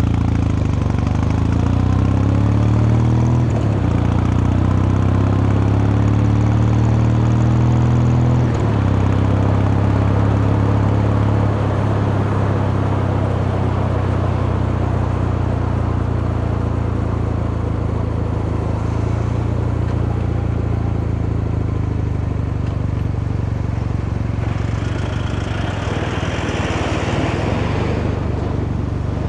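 Kawasaki Meguro K3's vertical-twin engine and exhaust under acceleration: the pitch climbs, drops at an upshift about three and a half seconds in, climbs again and drops at another upshift about eight and a half seconds in, then holds at steady cruising revs. A rushing hiss joins in for a few seconds near the end.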